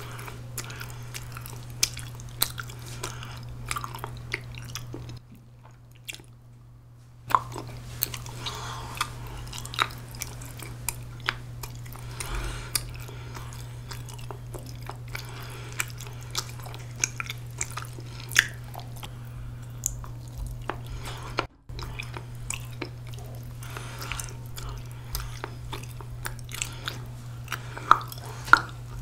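Close-up mouth sounds of chewing soft, chewy ramie-leaf rice cake (mosi-tteok): many wet smacks and clicks, with louder bite clicks near the end. A steady low hum runs underneath, and the sound cuts out for about two seconds some five seconds in.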